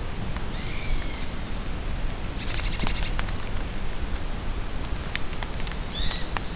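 Steady rain in a forest with scattered drops ticking close by, while birds call over it: a short warbled phrase about a second in, a fast dry trill in the middle, and another call near the end.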